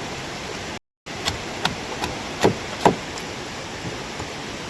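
A blade chopping a chicken against wood: about five sharp strikes in quick succession starting a little after a second in, the last two hardest. Underneath is a steady hiss.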